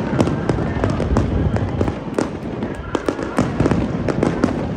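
Aerial fireworks going off in a dense, continuous barrage of overlapping bangs and crackles, the closing volley of a fireworks display.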